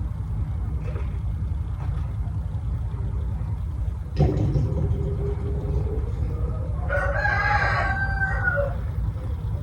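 A rooster crowing, one long call in the second half, over a steady low rumble.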